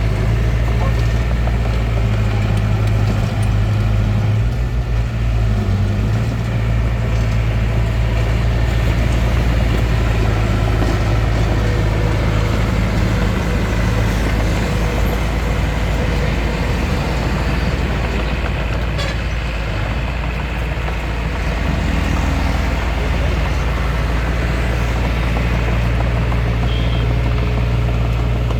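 Hitachi DX45M bulldozer's engine running steadily under work, with a deep, even drone whose note shifts a little a few times and dips briefly about two-thirds of the way through.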